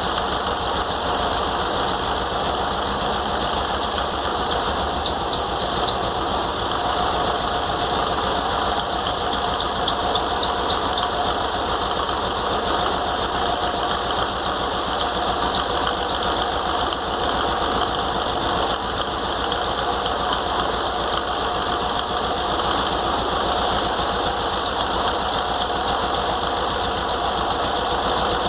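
VW Beetle air-cooled flat-four engine running steadily, with a fast, even clatter from the engine and its cooling fan. The run is a test of whether the alternator fan still scrapes its shroud after being spaced away with washers.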